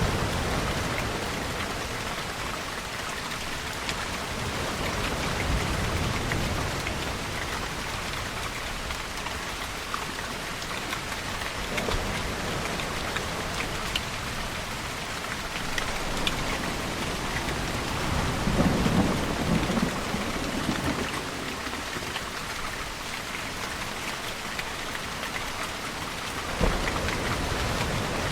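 Steady heavy rain falling on surfaces, with a low rumble of distant thunder swelling about two-thirds of the way through and a single sharp crack near the end.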